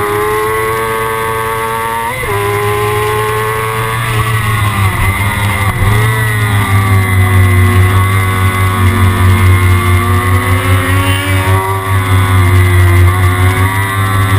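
Kawasaki ZX-6R inline-four engine running at high revs, its pitch rising and falling as the bike accelerates and eases off. Music plays alongside it.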